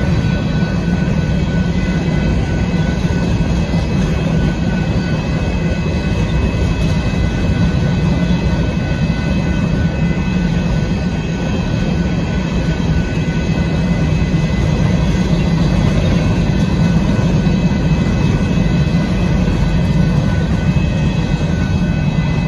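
Union Pacific freight train of covered hopper cars rolling past at a grade crossing: a steady, loud rumble of wheels on rail, with steady high tones ringing above it.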